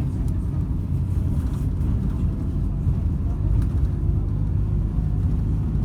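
Steady low rumble of a MAZ 206 city bus under way, heard from inside the passenger cabin, with a faint steady whine over the engine and road noise.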